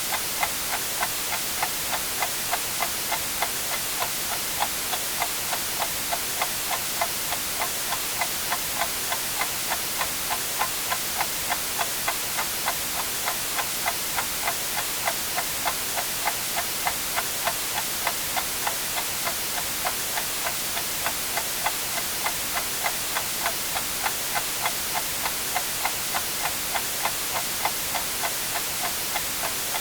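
Clock ticking steadily and evenly over a constant hiss of white noise.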